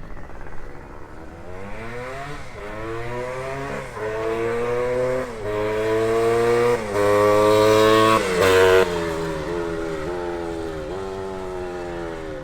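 1973 Penton/KTM Berkshire 100's two-stroke single, with a Bassani pipe, accelerating hard through the gears: the pitch climbs and drops back at each of about four upshifts. It is loudest about eight seconds in, then the engine note falls away as the rider eases off.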